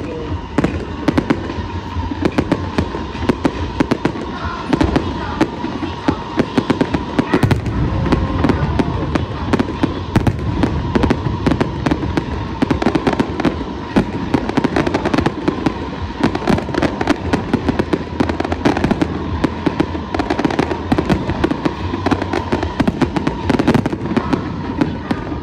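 Fireworks display: a dense, unbroken barrage of aerial shells bursting and crackling, many sharp bangs a second.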